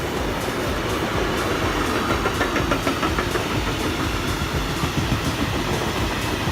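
A train running past with a steady rumble, and a run of wheel clicks over the rail joints in the middle.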